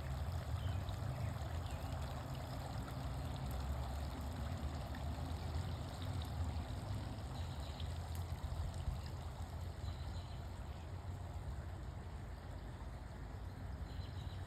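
Garden water fountain splashing and trickling steadily, with a constant low rumble underneath.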